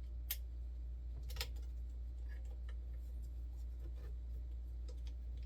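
Light, irregular clicks and taps of 3D printer parts and tools being handled during assembly, the sharpest about a third of a second in and a small cluster around a second and a half in, over a steady low hum.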